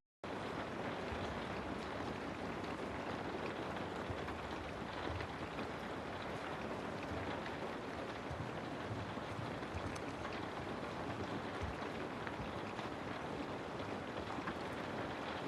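Steady recorded rainfall: an even, dense hiss with faint scattered drop ticks, cutting in a split second after a brief gap at the very start.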